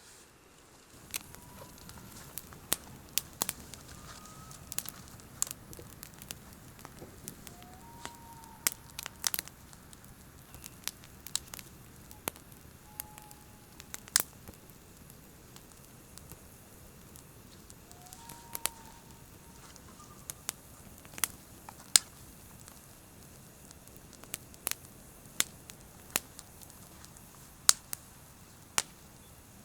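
Campfire burning with irregular sharp pops and crackles over a steady low hiss of flames, with a few faint short whistles now and then.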